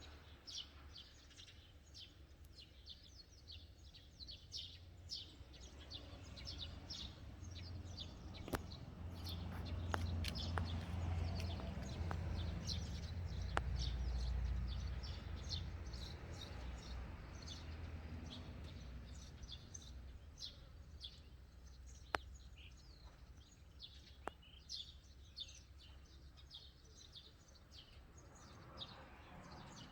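Small birds chirping in short, repeated high calls, with a passing road vehicle whose low rumble builds and fades over several seconds midway. A few sharp clicks stand out, one near the middle and one later.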